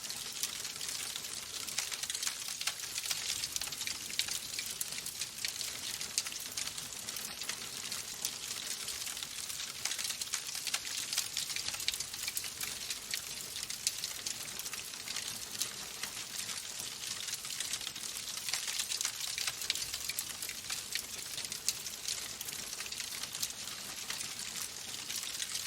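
Wood fire burning in a fireplace: a dense, steady crackle of many small pops and snaps over a soft hiss.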